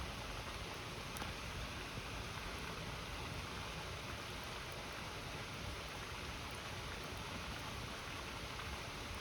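A river rushing steadily, with a couple of faint pops from a campfire.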